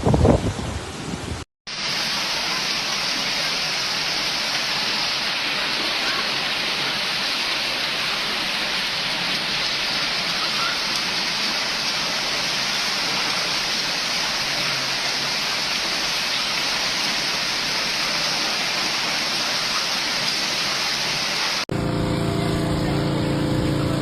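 Heavy rain pouring steadily, a dense even hiss. It opens with a brief loud rumble, and near the end it cuts to a low engine hum.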